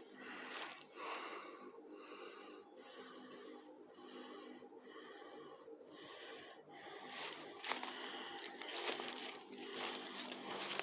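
Faint, heavy breathing of a person walking, coming in repeated breaths with short pauses between them.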